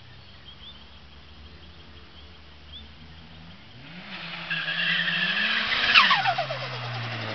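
Mazda 323 turbo engine accelerating hard, rising in pitch and loudness from about four seconds in. Near six seconds the throttle closes with a sharp click, and the turbo whistle falls away with a fluttering chatter: compressor surge flutter at about 10 psi of boost.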